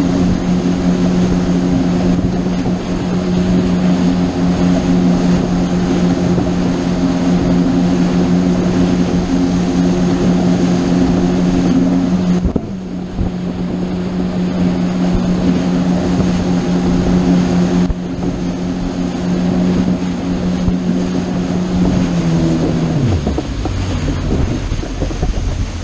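Motorboat engine running at a steady cruising speed, then throttled back about 22 seconds in, its pitch falling. Wind on the microphone.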